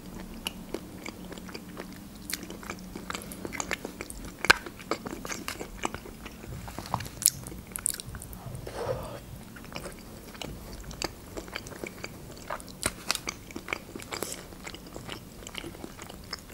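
Close-up mouth sounds of a person eating a soft, creamy mushroom julienne baked with cheese: chewing with irregular wet clicks and smacks.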